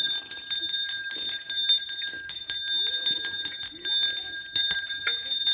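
A metal bell rung rapidly and continuously, its clapper striking several times a second and keeping up a steady, high ringing tone, as during puja.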